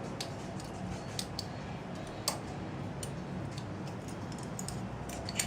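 A handful of sharp, irregular clicks and taps over a steady low hum, with the strongest click about two seconds in and another near the end.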